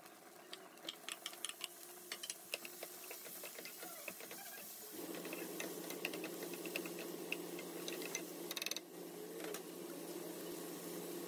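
Onion and bacon frying in a nonstick pan: light crackling pops, with the taps and scrapes of a wooden spatula stirring. About five seconds in, a steady low hum sets in.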